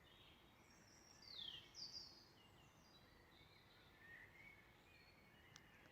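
Faint birdsong: a few scattered chirps and short calls, the clearest a quick falling call about a second and a half in, over a quiet outdoor background.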